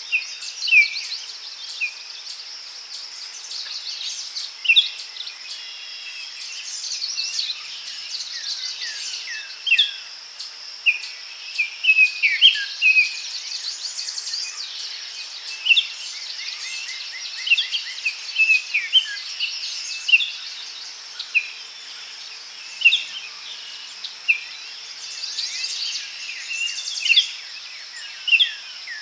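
Daytime forest chorus: many birds calling and singing in short chirps and whistled notes over a steady high insect buzz.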